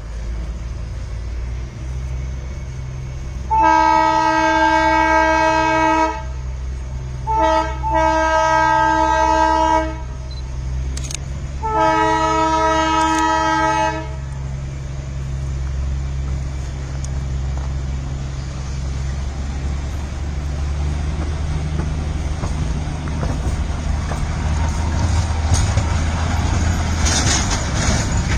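Darjeeling Himalayan Railway train sounding its horn in three long blasts, with a short toot just before the second, over the steady low rumble of the train running.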